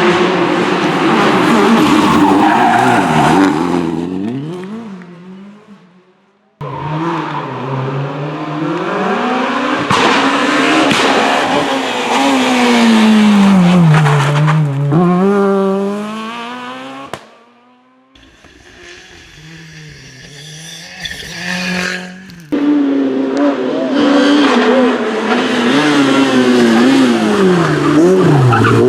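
Rally cars passing one after another at full speed. Their engines rev high and drop sharply on gear changes and braking, with tyre squeal, and each pass fades as the car drives away before the next one cuts in.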